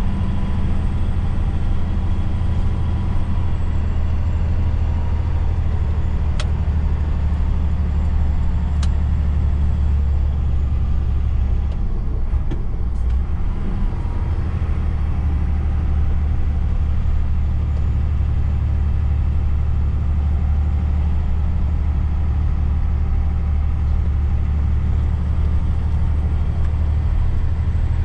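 Heavy truck's diesel engine running steadily under way, a constant low drone with road noise.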